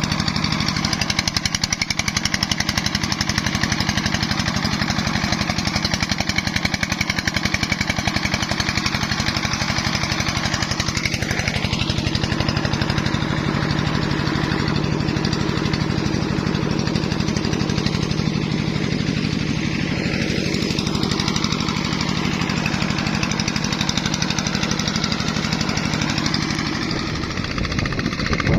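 Single-cylinder diesel engine of a công nông farm truck running steadily with a fast, even chugging beat, its note shifting slightly near the end.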